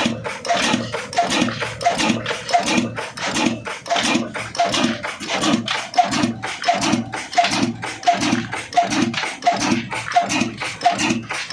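Old Ruston Hornsby-type diesel engine running at slow, steady speed: a regular low beat with a sharp click about one and a half times a second.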